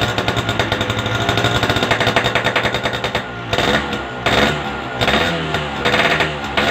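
Motorcycle engine breathing through an Altech C20 aftermarket exhaust, revved in repeated throttle blips that rise and fall, with a rapid, hard popping exhaust note.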